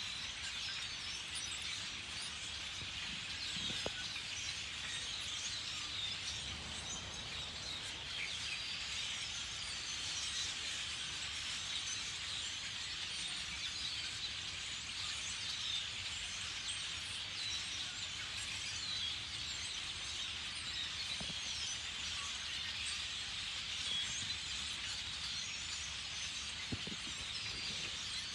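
A large flock of black birds calling all at once: a dense, steady chorus of many overlapping short chirps.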